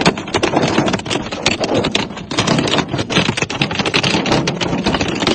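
Heavy hail pelting down: a loud, dense, rapid clatter of hailstones striking hard surfaces.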